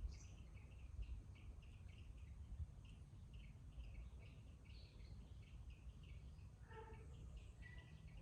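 Faint garden birdsong: a bird repeating a short chirp about three times a second, with a brief lower call about seven seconds in, over a steady low background rumble.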